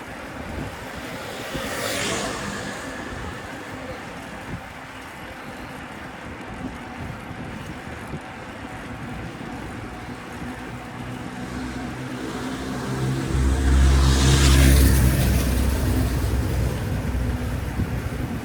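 Street traffic: a vehicle swishes past about two seconds in, then a heavier motor vehicle with a deep engine note approaches, passes close around fourteen seconds in, and fades.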